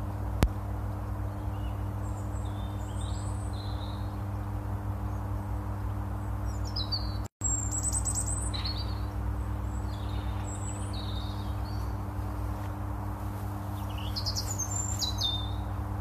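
Small birds chirping and trilling on and off over a steady low hum. The sound cuts out for an instant a little past halfway.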